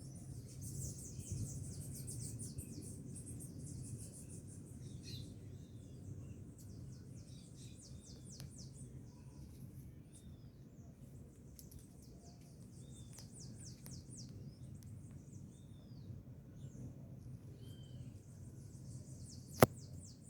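Outdoor wooded ambience: scattered short bird chirps over a high, rapid trilling and a steady low rumble. One sharp click sounds near the end.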